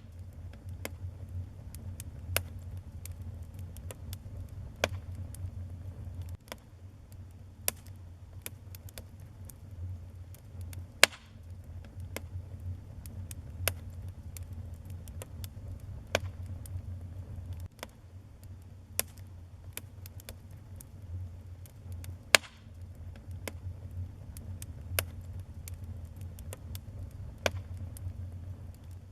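Wood fire in a fireplace crackling, with irregular sharp pops over a low steady rumble. Two pops stand out as louder, about eleven and twenty-two seconds in.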